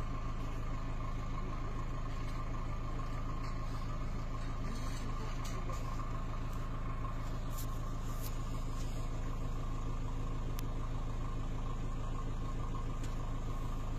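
A car engine idling steadily: an even low hum, with a few faint ticks over it.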